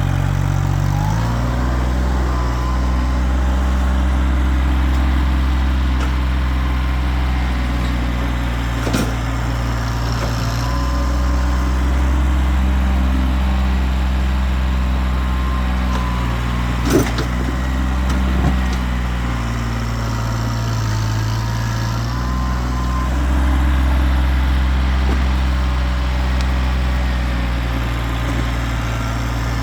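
Kioti tractor's diesel engine running steadily while digging, its pitch dipping and rising several times as the load changes. A few sharp knocks are heard, the clearest about 9 and 17 seconds in.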